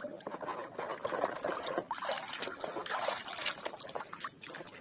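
Water splashing and trickling over plastic toy vehicles as they are washed, with many small irregular clicks and knocks.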